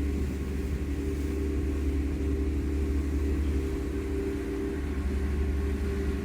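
Ferry's engines droning steadily: a constant low hum with a few held tones, under a light wash of water and wind noise.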